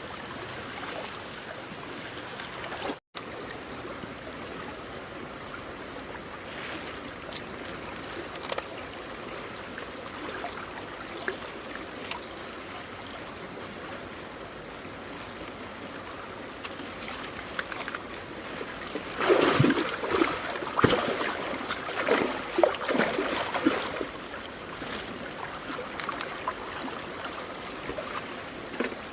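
Water running and trickling steadily, with a burst of splashing about two-thirds of the way through.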